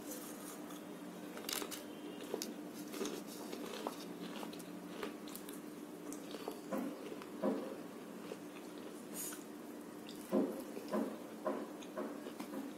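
Close-up mouth sounds of a person biting and chewing a syrup-soaked jalebi, with short chewing clicks and smacks scattered through, a cluster near the end. A faint steady hum runs underneath.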